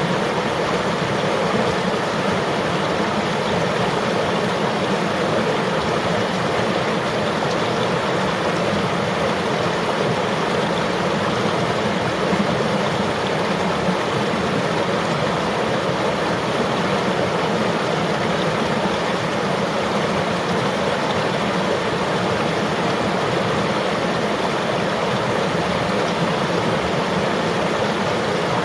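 River water flowing, a steady, even noise with no breaks or changes.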